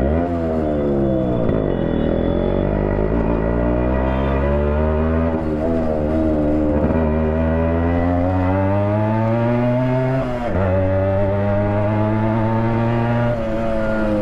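Yamaha RX100's two-stroke single-cylinder engine, its silencer baffle removed, running loud and raw as the bike is ridden. The pitch climbs steadily under acceleration, dips briefly about ten seconds in, then climbs again.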